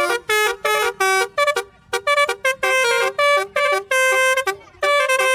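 Basuri telolet bus horn playing a quick tune of short honked notes at several pitches, with one longer held note near the end.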